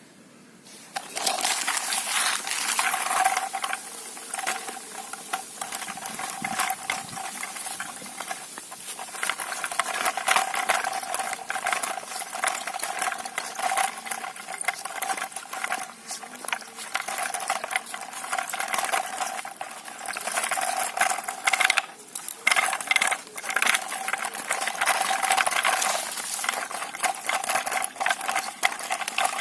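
A small battery-powered toy motor whirring steadily, with rapid plastic clicking and rattling.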